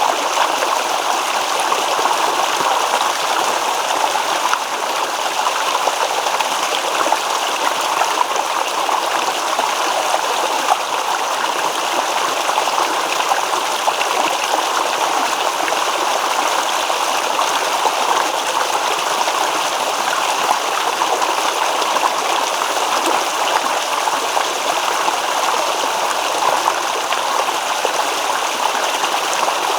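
A small stream babbling and trickling steadily over rocks, a constant splashing water sound with no breaks.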